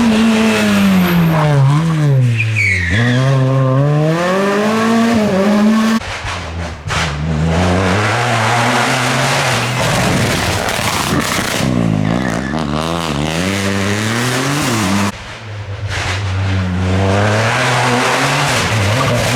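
Rally car engines on a special stage, revving up and falling back repeatedly through gear changes and braking. The sound breaks off sharply and restarts twice, about six seconds in and about fifteen seconds in.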